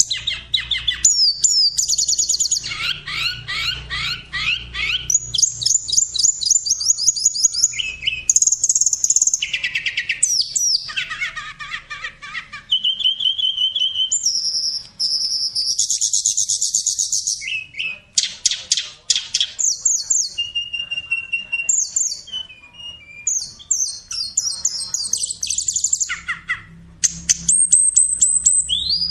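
Cockatiel chirping and chattering in quick repeated runs, with a few short, steady whistled notes mixed in.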